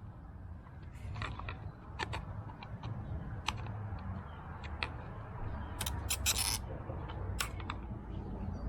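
Hands working the plastic fuel pump assembly, prying at its retaining tabs: scattered sharp clicks and snaps of plastic, with a short rapid cluster of clicks about six seconds in.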